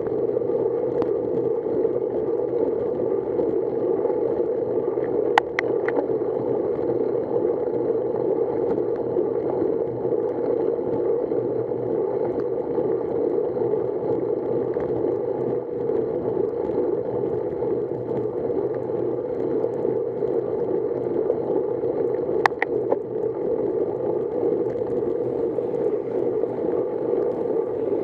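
Steady rushing noise of a bicycle ride on wet roads in the rain, tyre spray and moving air on the microphone, with two sharp clicks, one about five seconds in and one near twenty-two seconds.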